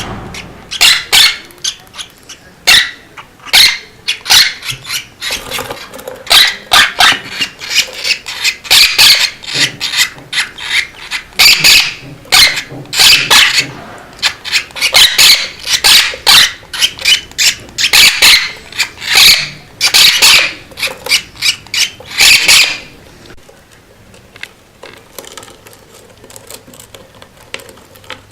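Small birds chirping loudly and repeatedly close by, a rapid run of short sharp calls that dies down about three-quarters of the way through.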